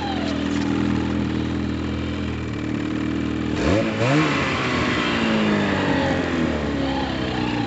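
850 turbo two-stroke snowmobile engine running steadily under way, then revving up sharply a little past halfway and winding back down as it falls in pitch.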